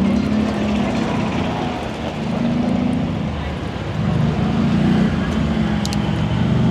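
Heavily modified high-horsepower diesel truck engine running with a deep, steady rumble that eases off about two seconds in and comes back up louder about four seconds in.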